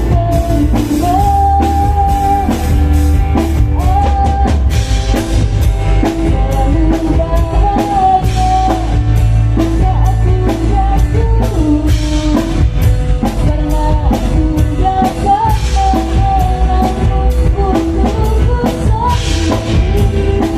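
Live band playing a pop-rock song: drum kit keeping a steady beat under bass and guitar, with a sung melody line.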